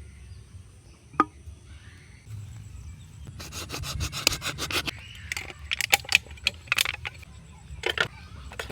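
Short scraping or rubbing strokes: a quick run of them about three and a half seconds in, then scattered single strokes.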